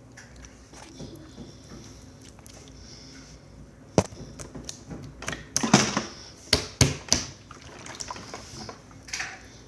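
Slime being squished and pressed by hand, giving a run of sharp wet clicks and pops starting about four seconds in and lasting a few seconds.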